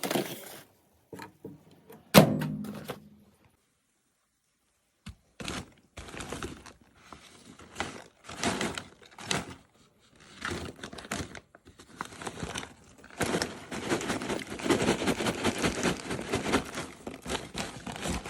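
A single thunk with a short ringing tail about two seconds in, then, after a pause, irregular crunching and crackling of popcorn that grows denser over the last few seconds.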